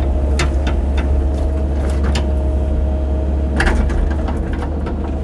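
Excavator engine running with a steady low drone, with several short sharp knocks and clicks over it.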